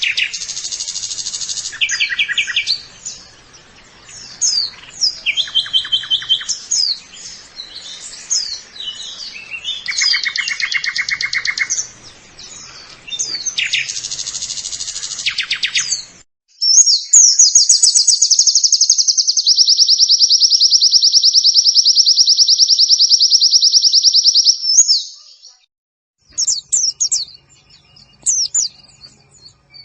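High, quick twittering songbird chirps and short trills from a white-eye (pleci) song-training recording. About 17 s in, a loud, very fast, even trill runs for some eight seconds, then stops, and after a brief gap the chirping starts again.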